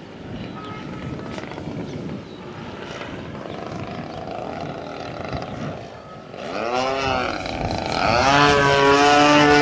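Radio-controlled model airplane's motor and propeller. At first there is only a windy hiss; from about six seconds in, a pitched drone swoops up and down as the plane flies past, then holds a louder steady tone for the last second or so.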